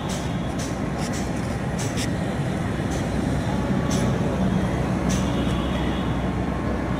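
A train's steady low rumble, a little louder in the middle, with a few short sharp clicks.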